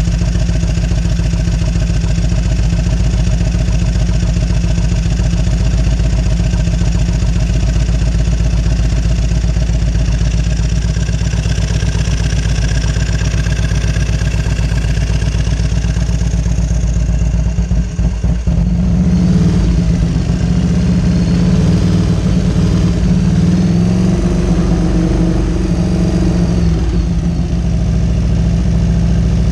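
1998 Harley-Davidson Road King Classic's fuel-injected Evolution V-twin running at idle. About two-thirds of the way in the note shifts and gets louder, with the revs wavering up and down, in keeping with the bike's fault of revving by itself.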